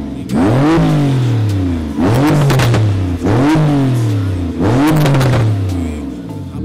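Porsche 911 Turbo S's twin-turbo flat-six, fitted with upgraded turbochargers, revved four times with the car standing still. Each rev climbs sharply and then falls back toward idle, and the engine settles near the end.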